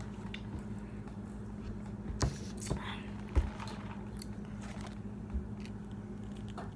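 Close-up eating sounds: biting and chewing food, with a few sharp clicks and knocks of handling, over a steady low hum.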